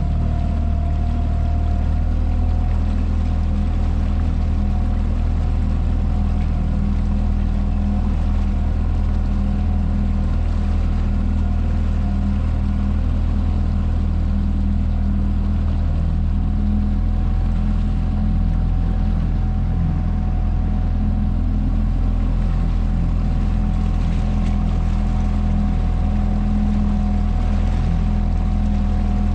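Motorboat engine running at a steady speed, a constant low hum.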